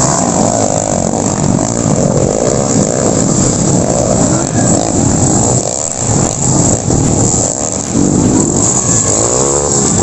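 Underbone motorcycle engines revving hard and easing off over and over, the pitch climbing and falling as the bikes race.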